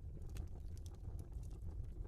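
Wood fire crackling in a fireplace: irregular sharp pops and snaps over a low, steady rumble of burning logs.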